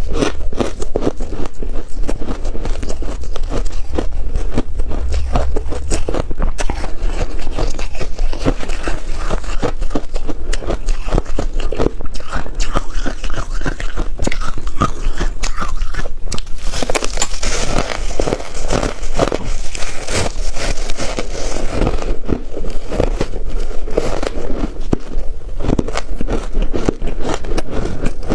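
Freezer frost being bitten and chewed: a dense, continuous run of crunches and crackles.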